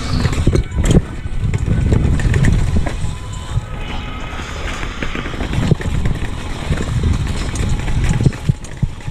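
Wind buffeting the microphone and mountain-bike tyres rolling over a dirt trail during a downhill run, with scattered knocks and rattles from the bike over bumps.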